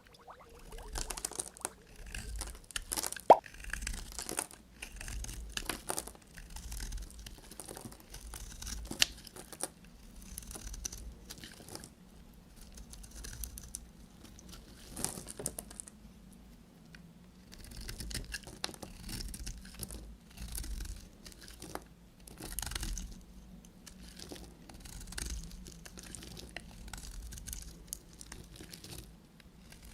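A knife cutting through bars of soap: a run of irregular crunchy, crackling cuts with a few sharp snaps, the loudest about three seconds in.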